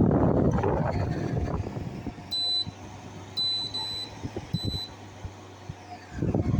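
Arctic King window air conditioner's control panel beeping four times as its buttons are pressed: short, high beeps spaced under a second apart, over the steady hum of the running unit. A low rumbling noise is loudest at the start and returns near the end.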